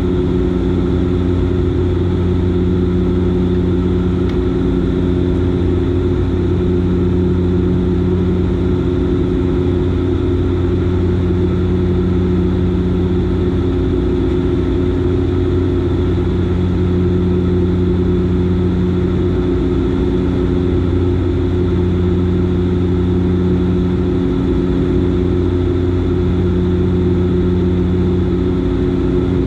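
Dash 8 Q400's Pratt & Whitney PW150A turboprops and six-bladed propellers droning steadily in flight, a deep propeller hum with a slow swelling and fading in its tone.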